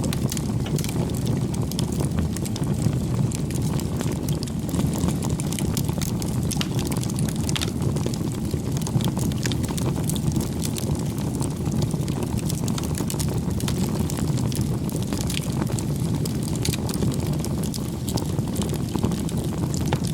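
Wood fire burning steadily, a low rumbling roar under many small, irregular crackles and pops.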